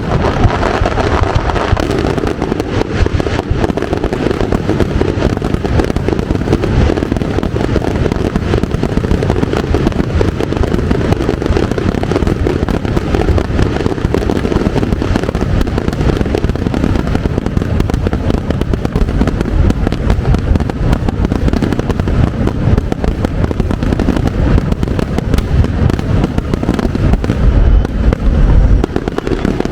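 Large fireworks display: a dense, continuous barrage of bangs and crackling, with a few heavier deep booms near the end.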